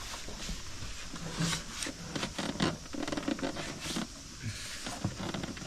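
Hands working a plastic part into place under the bonnet: scattered light clicks, taps and scrapes.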